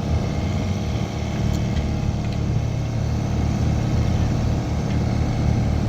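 Sailboat's engine running steadily under way, motoring at cruising speed: an even low hum.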